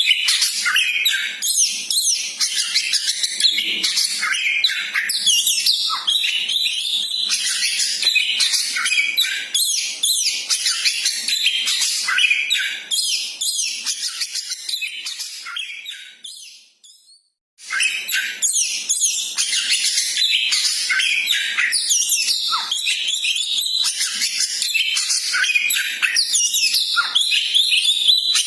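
Koci bird calling: dense, rapid high-pitched chirping and trilling, with a brief break near the middle.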